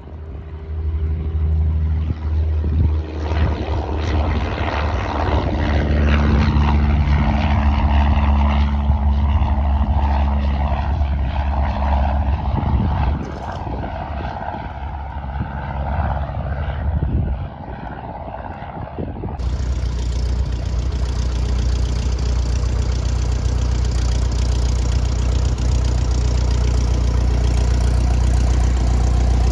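Light single-engine piston airplane's engine and propeller running at high power, growing louder about a second in and easing off around the middle. An abrupt cut near the end leads into a piston engine running steadily.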